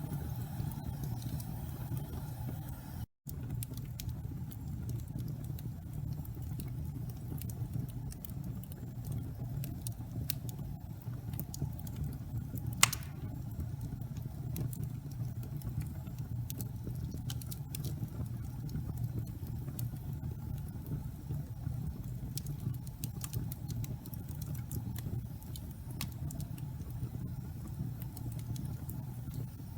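Wood fire in a fireplace crackling over a steady low roar, with scattered small pops and one loud sharp pop about 13 seconds in. The sound drops out for a split second about 3 seconds in.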